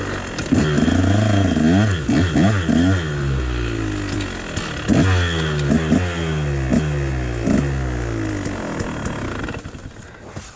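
KTM dirt bike engine revving on the throttle: its pitch swings up and down, then climbs in a series of repeated rising sweeps, and near the end the engine sound drops away suddenly.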